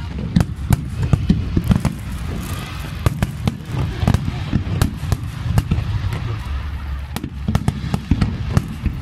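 Aerial fireworks going off in quick succession: a dense run of sharp bangs and crackles over a continuous low rumble.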